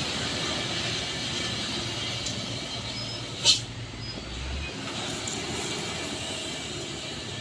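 Truck engine running steadily, with one brief sharp burst of sound about halfway through.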